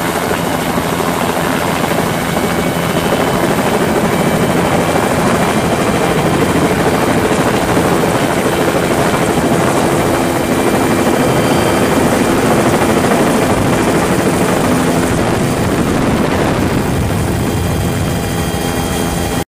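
Helicopter's turbine and rotor running steadily at take-off power; the sound cuts off abruptly near the end.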